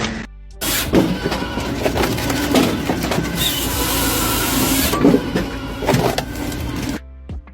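Heavy wood-processing machinery running with a dense clatter and repeated knocks, cutting off abruptly near the end as music begins.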